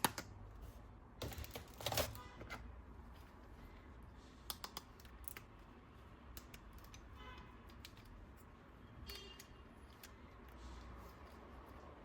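Light, irregular clicks and taps of plastic toy parts and packaging being handled, with a few sharper clicks about two seconds in and near the middle.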